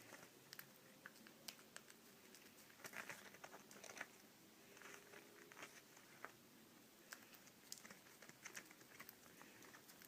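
Near silence with faint, scattered light clicks and scratches, a little busier about three to four seconds in.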